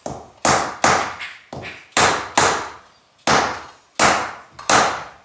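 Bricks being tapped down into fresh fireplace mortar to set them: about ten sharp knocks, mostly in quick pairs, each with a brief ringing fade.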